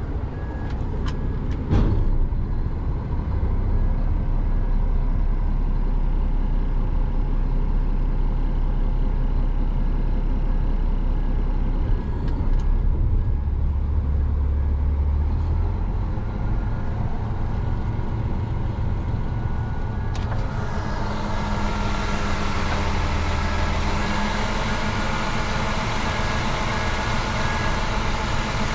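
Roll-off dumpster truck running its engine and hydraulic hoist to raise the bed and set the dumpster down: a steady low drone, with a knock about two seconds in. About twenty seconds in, a louder hissing, rushing noise joins.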